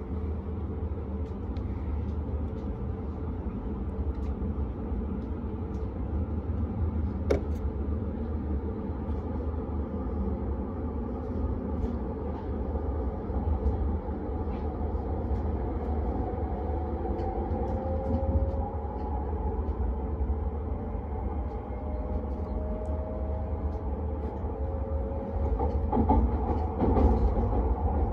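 Inside a Hayabusa Shinkansen passenger car: a steady low rumble, joined about midway by a motor whine that rises in pitch as the train pulls away and gathers speed.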